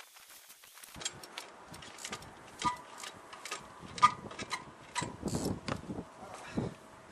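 Irregular knocks and clicks with a few short metallic clinks, and heavier thumps in the second half.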